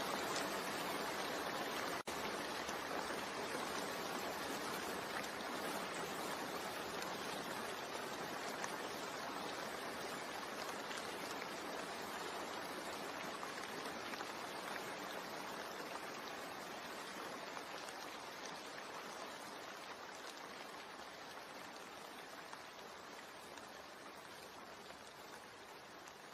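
Steady rain, an even hiss of many drops without any pattern, slowly fading down in level. A brief dropout comes about two seconds in.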